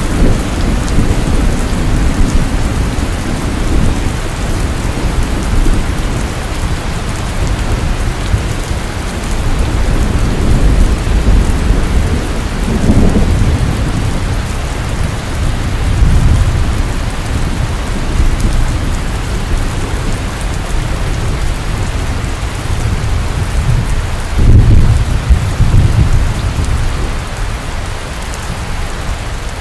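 Steady heavy rain falling, with low rolls of thunder swelling several times; the loudest rumble comes about three quarters of the way through.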